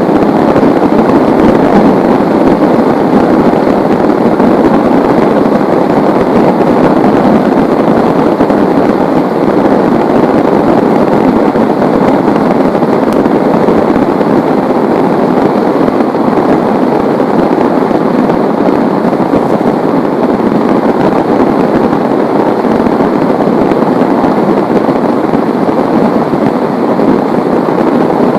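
Heavy rain falling in a steady downpour, a dense, even rushing without let-up.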